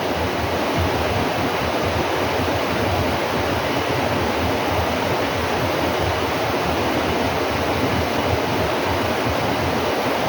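Steady, even rushing noise that holds at one level without breaks.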